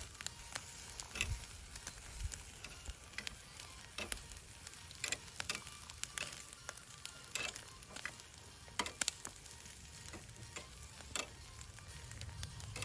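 Campfire crackling, with irregular sharp pops and snaps over a faint steady hiss.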